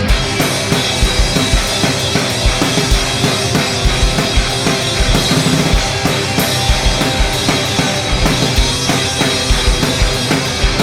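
Live rock band playing without vocals: a drum kit keeps a steady kick-and-snare beat under electric guitars and bass.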